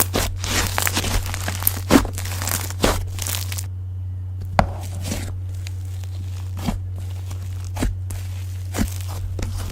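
Slime being squished and stretched by hand, with a dense run of crackling and popping for the first few seconds, then single sharp pops every second or two, over a steady low hum.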